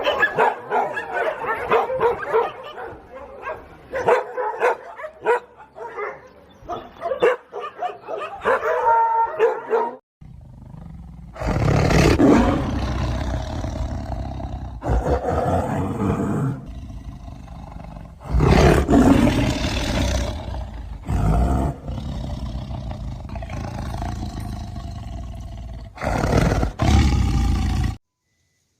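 A jumble of short, quick animal calls for the first ten seconds, then, after a brief break, a big cat roaring and growling in several long, loud bouts that cut off suddenly near the end.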